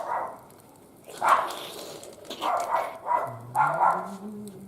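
A dog barking several times in short separate barks, with a low hum swelling and fading underneath in the second half.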